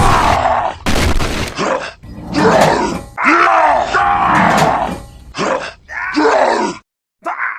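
Exaggerated wordless vocal sounds, a run of voice-like cries with swooping, arching pitch in bursts about a second long, stopping near the end.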